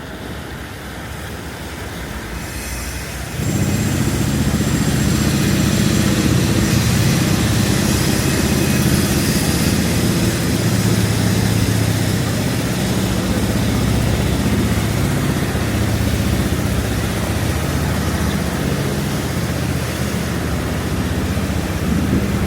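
A large motor vehicle's engine running steadily close by, a low rumble that comes in about three seconds in, over the hiss of a rain-wet street.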